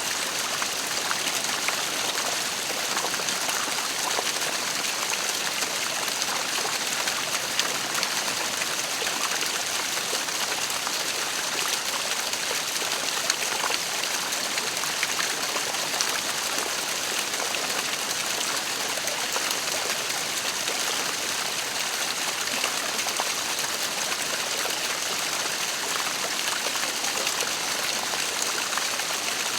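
Waterfall: a steady rush of falling water, an unbroken hiss strongest in the upper range, with small splashes scattered through it.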